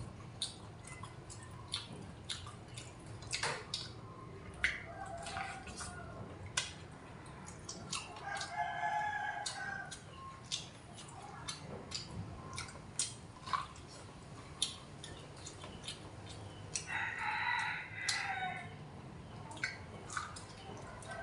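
Close-up mouth sounds of eating steamed sticky corn on the cob: many sharp wet clicks and smacks while chewing. Chickens call in the background several times, the longest call about 17 seconds in.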